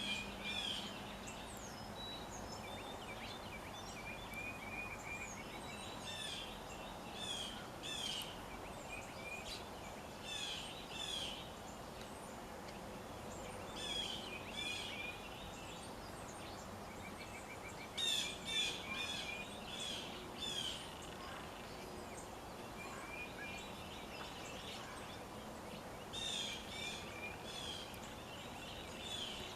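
Wild birds singing: short high chirping phrases repeated every second or two, with brief rapid trills, over a steady outdoor hiss. The loudest phrases come about two thirds of the way through.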